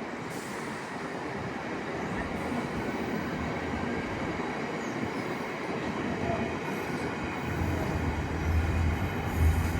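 A train running through the station, with a low rumble that builds toward the end.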